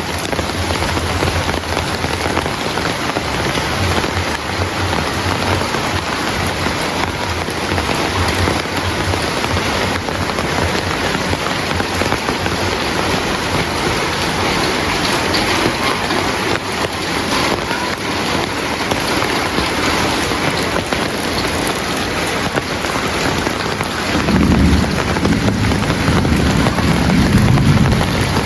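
Heavy rain falling steadily. Near the end a low rumble of thunder rolls in for a few seconds, the loudest part.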